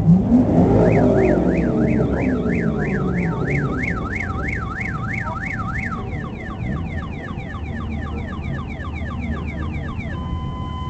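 Car alarm siren cycling through its tones: a wailing up-and-down sweep about three times a second, then fast falling yelps from about six seconds in, then a steady alternating two-tone pattern near the end. A rising sweep opens it.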